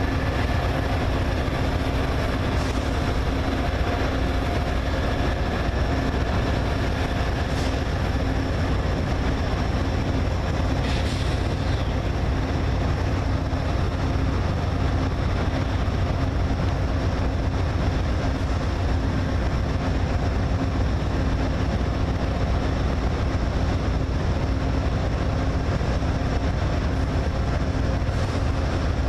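Train sitting idle at a station, most likely a diesel locomotive: a steady low rumble with a constant engine hum that does not change.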